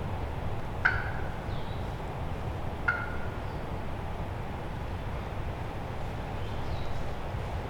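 Wind rumbling on the microphone, with two short, sharp wild turkey notes, one about a second in and one about three seconds in.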